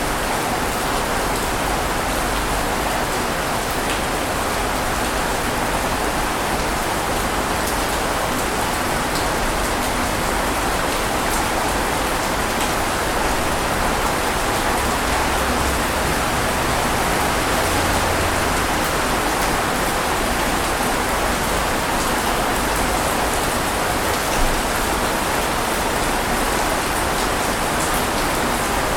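Steady rain falling, an even hiss with scattered drop taps and one slightly louder tap near the end.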